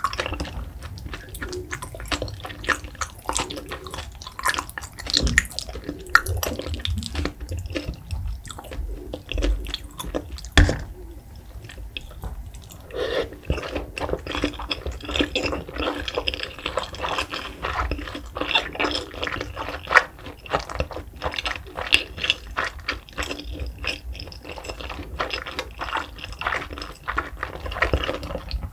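Close-miked chewing of raw salmon sashimi: wet, squishy mouth sounds with many small clicks and smacks, easing off for a moment about eleven seconds in.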